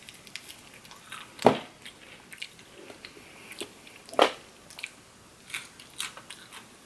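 A person eating close to the microphone: crunchy bites and chewing, with two loud crunches about a second and a half and four seconds in and softer mouth clicks between.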